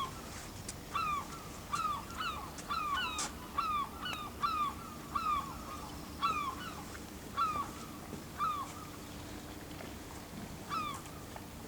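Birds calling: a run of short calls that slide downward in pitch, repeated irregularly about one to two times a second, then a pause and one last call near the end.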